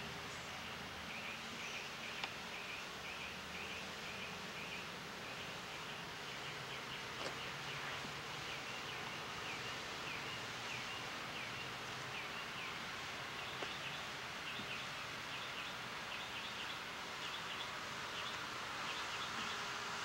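A small bird chirping over and over in short high notes, a few a second, over a steady background hiss and low hum.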